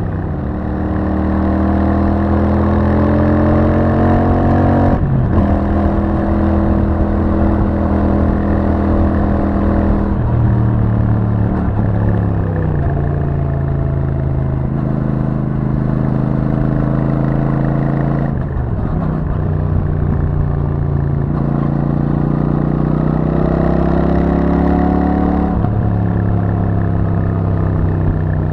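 Royal Enfield Super Meteor 650's 648 cc parallel-twin engine through its stock exhaust, riding winding roads: the revs climb and sink again and again, with about five sudden drops in pitch where the rider shifts gear or rolls off the throttle.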